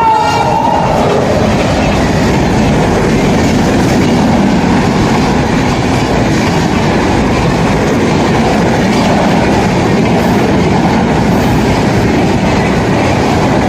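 Indian Railways train passing close by at speed: a loud, steady rush of wheels and carriages running over the rails. At the very start is the tail of its horn, dropping in pitch as it goes by.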